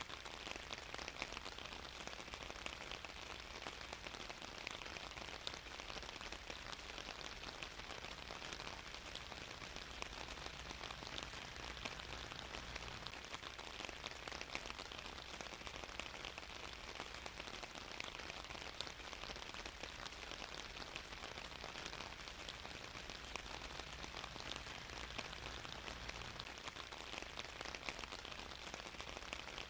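Steady rain falling, a dense, even wash of many small drops with no let-up.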